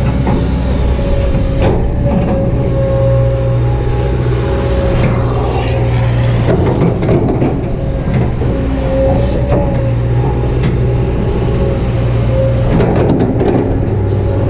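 Kobelco SK200-8 hydraulic excavator's diesel engine running steadily while working, with a steady whine over it and a few sharp knocks and clanks along the way.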